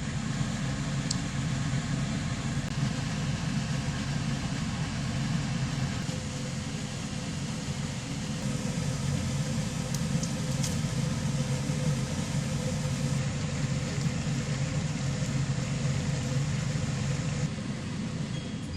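A motor vehicle's engine running steadily with an even hum and no change in pace.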